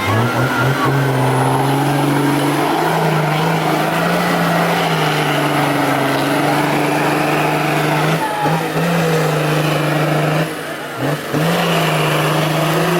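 Off-road 4x4's engine revving hard and held at high revs, its pitch rising and falling again and again. It briefly drops off about ten and a half seconds in, then picks up again.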